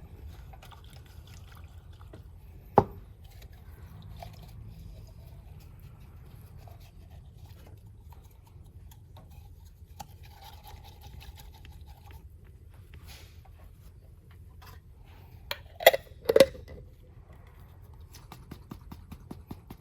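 Oil filter pleats swished in a jar of gasoline to wash trapped debris out of the element for inspection: faint liquid sloshing and rubbing. A sharp click about three seconds in and two loud knocks close together later on.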